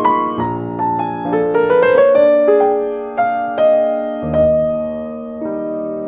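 Slow, gentle piano music: single struck notes that fade, a quick rising run of notes about a second and a half in, then held chords.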